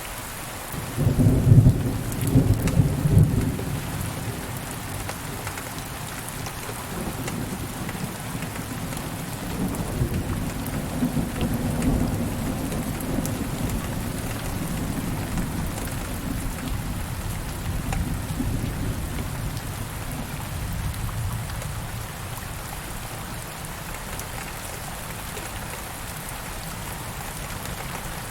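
Steady rain with a loud clap of thunder about a second in, followed by long, low rolling thunder that fades away.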